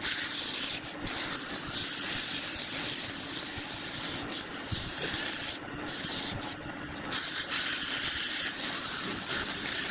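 A hiss of a turning tool cutting into wood spinning on a lathe, starting abruptly and breaking off briefly twice past the middle.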